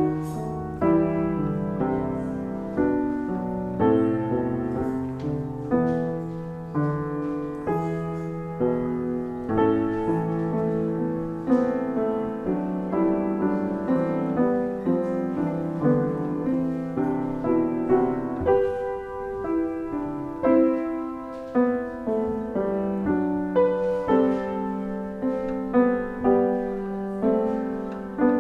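Piano playing slow, sustained chords, each struck roughly once a second and left to ring and fade.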